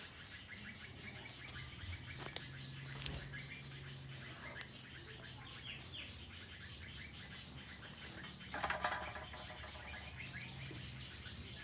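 Small birds chirping in the background over a low steady hum, with a brief clatter of handling noise about three-quarters of the way through.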